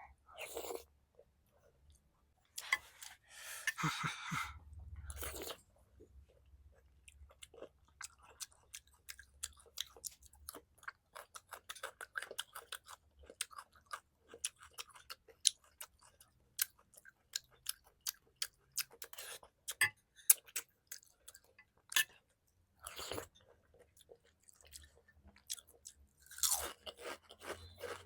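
Close-up mukbang eating of kheer (rice pudding): wet chewing and mouth smacks, heard as a long run of many small quick clicks, with a few louder ones in the second half.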